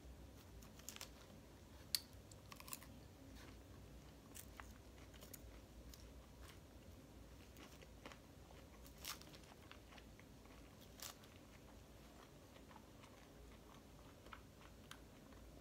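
Faint crunching and chewing of a lettuce salad with chicken nugget pieces, with a few sharp clicks scattered through, the loudest about two seconds in.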